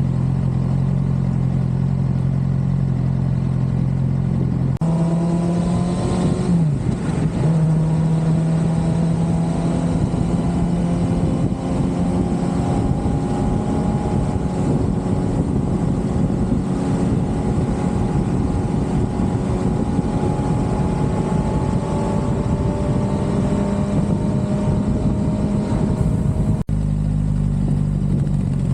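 Suzuki GSX-R600 inline-four engine while riding. A steady low drone comes first; then, about five seconds in, wind rush builds and the engine note climbs slowly as the bike gathers speed. The sound breaks off briefly near the end.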